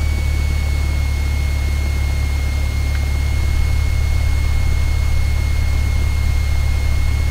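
Cessna 172's piston engine and propeller running at low power during taxi, a steady deep drone heard from inside the cabin, with a steady high whine above it.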